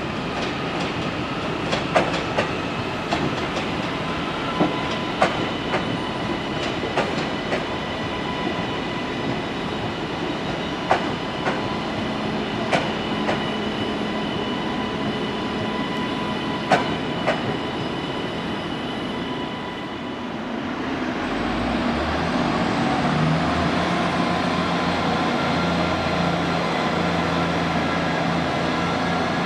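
Train moving through the station, its wheels clicking irregularly over rail joints and points, with a steady high whine. About twenty seconds in, the clicking stops and a deeper engine drone builds and holds.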